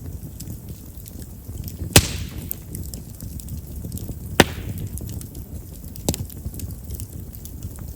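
Chestnut firewood burning in an open fire: a low steady flame rumble with faint crackling, broken by two sharp loud pops about two and a half seconds apart, each followed by a brief hiss, and a smaller pop about six seconds in. Chestnut's large wood vessels make it a wood known for popping as it burns.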